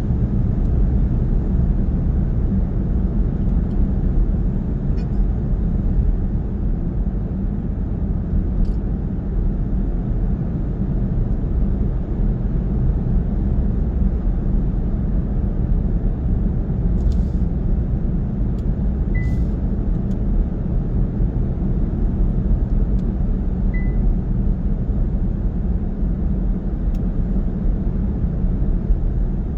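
Steady low road and engine rumble of a car driving at speed, heard from inside the cabin. Two brief faint high beeps sound near the middle.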